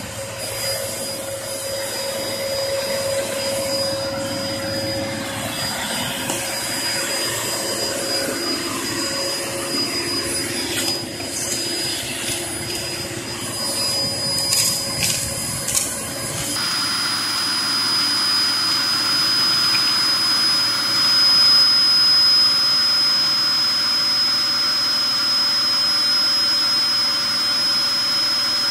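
Hoover Performer Pet upright vacuum cleaner running steadily with a high motor whine, sucking up fireplace ash. Between about ten and sixteen seconds in, bits of debris rattle and click through it. About sixteen seconds in, the sound changes abruptly and the whine becomes stronger and steadier.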